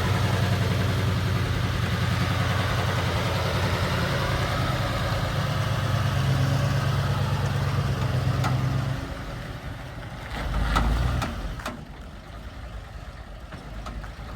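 Old truck's engine running steadily, then dying on its own about nine seconds in. A low thump and a few clicks follow.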